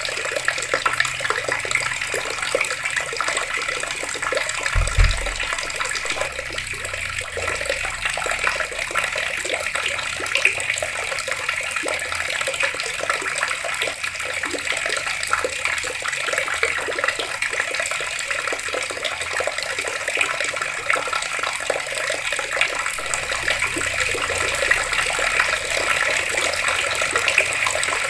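Water taps running steadily, the water splashing and gushing without a break. A brief low thump sounds about five seconds in.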